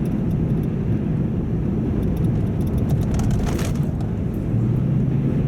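Vehicle engine running with a steady low rumble; a low hum comes in about four and a half seconds in.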